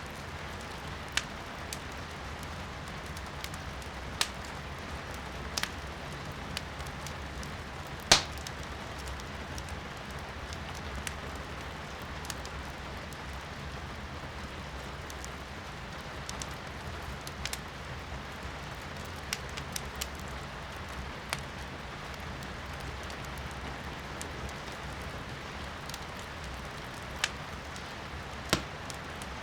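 Wood fire in a fireplace crackling, with sharp irregular pops, the loudest about eight seconds in, over a steady hiss of rain heard from indoors.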